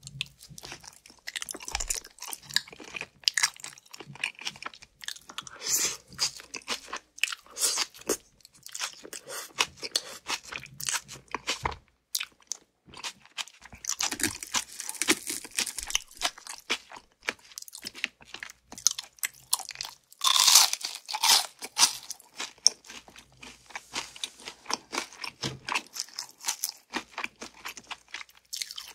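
A person biting and chewing crispy fried chicken close to the microphone: many irregular, sharp crunches, louder about halfway through and again about two-thirds of the way in.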